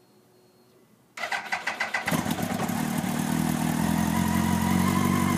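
Yamaha R1's inline-four engine cold-started: about a second in, the starter cranks briefly in quick pulses, then the engine catches and settles into a steady idle. It is the bike's first start of the day, still cold.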